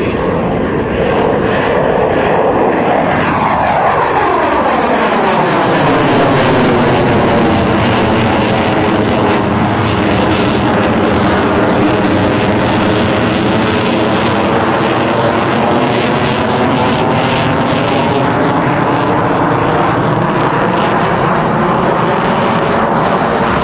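Mirage 2000D fighter jet's single SNECMA M53 turbofan passing at close range, loud throughout. Its pitch sweeps downward a few seconds in as it goes by, then settles into steady jet noise that slowly fades.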